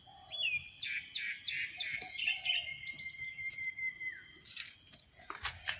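A bird calling: a quick run of downward-sweeping chirps, then one long steady whistled note lasting about two seconds. A steady high insect trill runs underneath, and a few sharp clicks come near the end.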